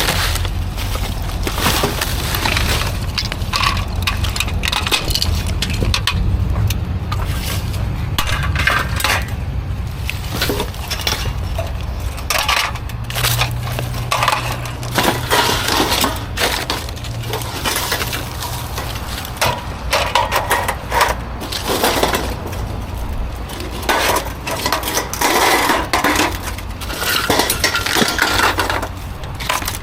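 Scrap metal pieces clanking and clattering as they are handled and tossed, many irregular metallic clinks and crashes over a steady low hum.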